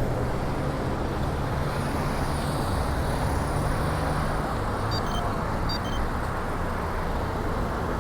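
Steady traffic and road noise with a low engine hum. Two faint, short high chirps sound about five and six seconds in.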